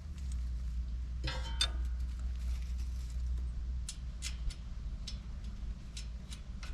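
Scattered metal clinks and taps from hand work on a tractor's rear hitch fittings: a short clatter about a second in, then single clicks every half second or so. A steady low hum runs underneath.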